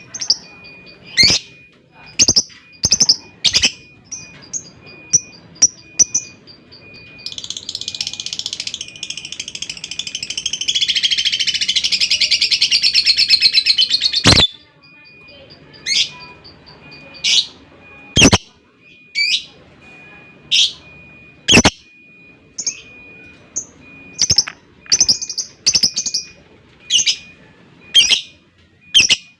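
Lovebird giving short, sharp chirps, then breaking into one long, rapid chattering trill, the ngekek, from about a quarter of the way in. The trill grows louder and stops suddenly around the middle, after which the single chirps resume.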